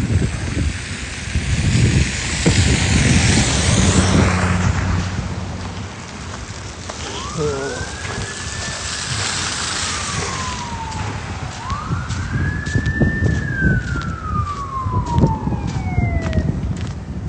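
A distant emergency-vehicle siren wails twice, each wail rising quickly and falling slowly, over street traffic and wind noise. A run of short, regular clicks comes near the end.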